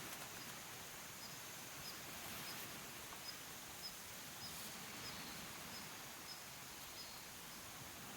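Quiet outdoor ambience: a steady soft hiss, with a faint, short, high chirp repeating about twice a second.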